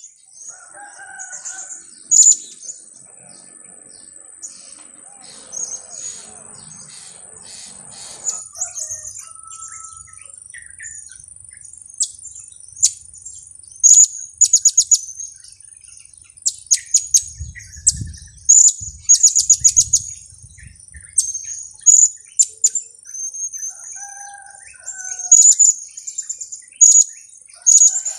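Blue-crowned hanging parrots (serindit) giving high-pitched 'kiak-kiak' chirps in quick clusters of short notes, over a steady thin high whine.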